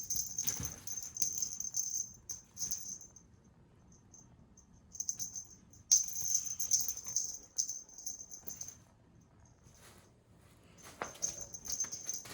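A cat toy being shaken and swung in play, rattling and jingling in three bursts, with quiet pauses between them. The bursts come at the start, again from about five seconds in, and near the end.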